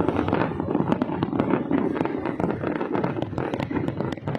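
Fireworks going off in a dense barrage: rapid, overlapping pops and crackles with no let-up.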